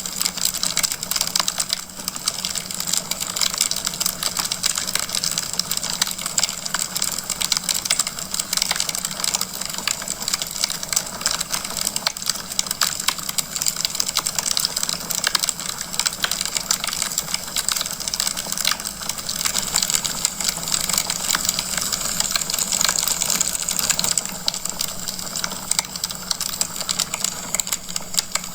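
Wood fire crackling in a fireplace: a dense, continuous stream of small pops and snaps over a steady hiss.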